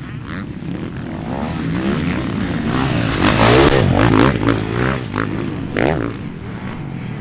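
Motocross dirt bike engine revving up and down repeatedly as it is ridden around a rough track, loudest about halfway through.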